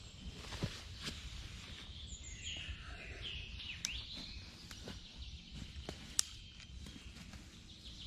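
Birds chirping, with several short sweeping calls, over a low steady outdoor rumble. A few sharp clicks sound among them, the loudest about six seconds in.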